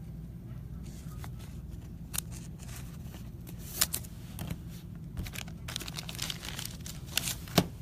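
Trading-card pack wrappers being torn open and crinkled, heard as scattered sharp crackles and clicks that get busier in the last two seconds and peak in a loud snap near the end, over a steady low hum.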